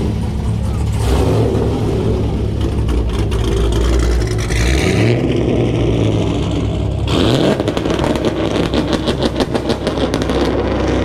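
Car engine running with a steady low rumble; about seven seconds in it revs up, then runs with a rapid, choppy pulsing exhaust for a few seconds.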